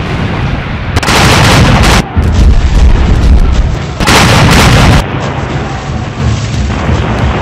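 Battle sound effects of cannon fire and explosions: two loud blasts, about a second in and about four seconds in, each lasting about a second, with deep rumbling between them.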